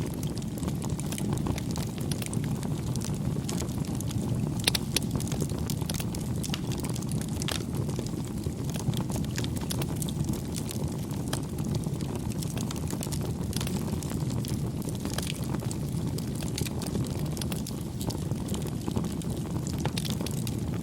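Bonfire burning: a steady low rush of flame with frequent irregular crackles and pops from the burning wood.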